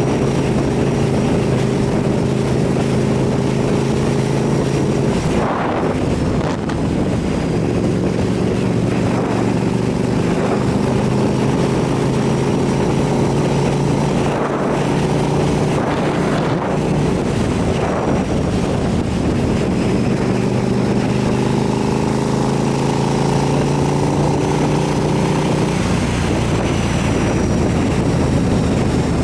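KTM 990 SMR supermoto's V-twin engine running under way, with wind noise on the microphone. The engine note changes about five seconds in and again near the end.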